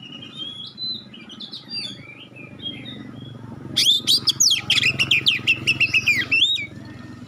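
Oriental magpie-robin (kacer) singing: soft scattered whistles, then about four seconds in a loud burst of rapid, sharp sweeping notes lasting nearly three seconds, the piercing 'tembakan' phrases, before it drops back to softer notes.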